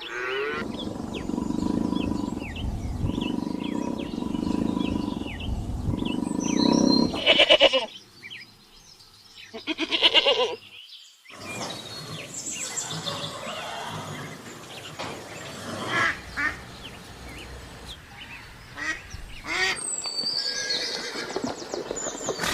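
A string of separate animal-call recordings cut one after another, mostly farm animal calls with birds chirping behind them. There are loud pulsed calls about seven and ten seconds in, and abrupt changes of recording near eight, eleven and twenty seconds in.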